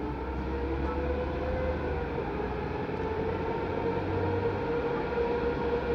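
EP2K diesel locomotive's engine running under power as it starts a passenger train, a steady drone with a low hum and a tone that edges slowly upward as it grows gradually louder.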